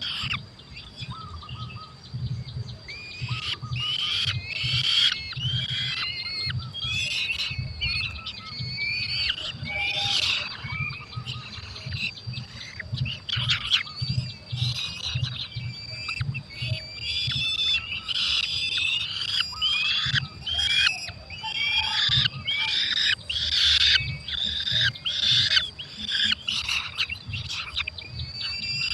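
Falcon nestlings calling over and over, a dense run of high, rapid, overlapping calls, with a low rumble underneath.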